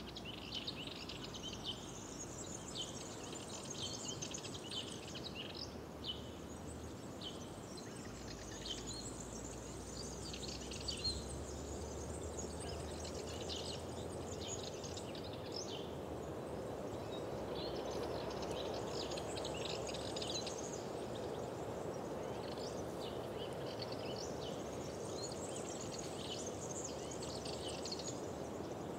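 Several small birds chirping and singing in quick, overlapping phrases, with short lulls, over a steady low rushing background that grows a little louder past the middle.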